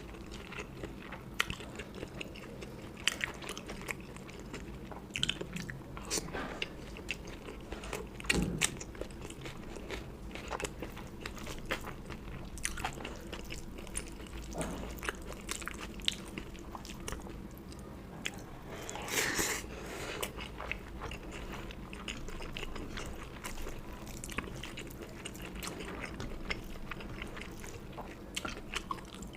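Close-miked mukbang eating: chewing and biting with frequent small wet clicks and crunches as curry and rice are eaten by hand. One longer, louder crunch comes about two-thirds of the way through.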